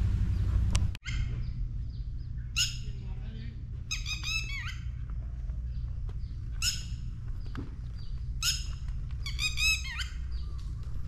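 A bird singing outdoors: short, clear, high phrases that sweep downward, repeated every second or two from about a second in. A steady low rumble runs underneath.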